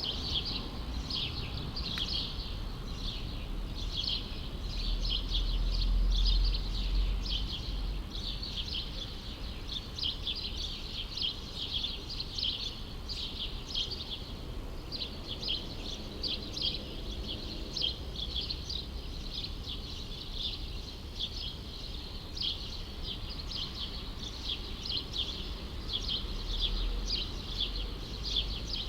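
A dense chorus of small birds chirping continuously, over a low background rumble that swells briefly about five seconds in and again near the end.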